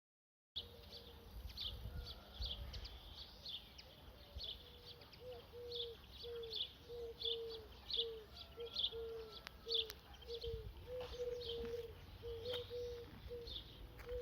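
Birds calling outdoors: a running series of short, high chirps alongside a repeated short, low hooting note, each about twice a second.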